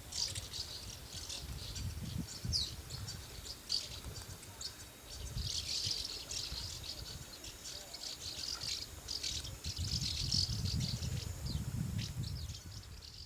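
Swallows twittering: a dense run of quick, high chirps, with a low rumble underneath.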